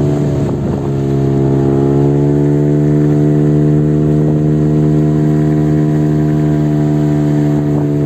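HDX (Parsun) 5 hp two-stroke outboard motor running close by at steady part throttle, its pitch easing slightly lower in the first couple of seconds and then holding even. The motor is being run in, so it is kept off full throttle.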